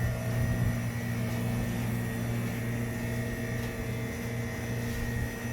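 Walk-in cold store's refrigeration unit running with a steady low electrical hum and a faint steady high whine.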